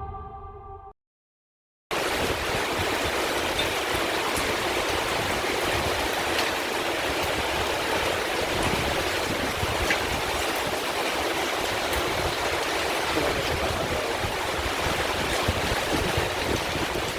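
The tail of a piece of music fades and cuts to silence; about two seconds in, a steady, even hiss of rain pouring down starts and runs on without a break.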